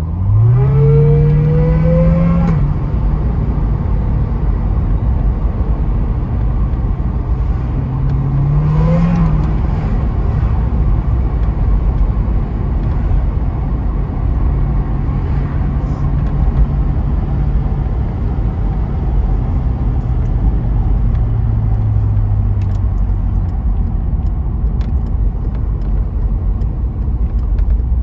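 Corvette V8 heard from inside the cabin, accelerating twice with a rising engine note in the first couple of seconds and again about nine seconds in, then running at a steadier pitch. Road and tyre rumble lies under it throughout.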